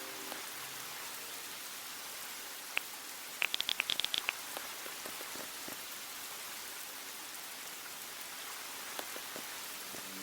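Steady rain hiss, with one sharp tick and then a quick run of about ten sharp ticks a few seconds in.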